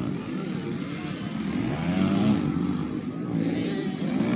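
Several 85cc two-stroke motocross bikes racing, their engine notes overlapping and repeatedly rising and falling in pitch as the riders rev and shift.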